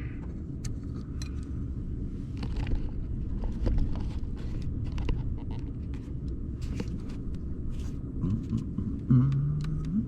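Steady low rumble inside a truck camper, with scattered light clicks and knocks of a mug and utensils being handled. A short hummed voice tone comes near the end.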